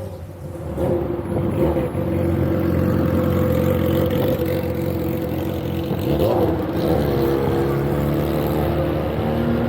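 Motor-vehicle engine running steadily, its pitch shifting a little now and then.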